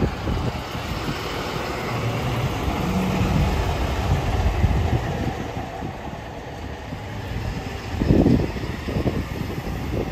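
Transperth electric suburban train moving at the platform, a steady low rumble with a brief hum, and a louder knock about eight seconds in.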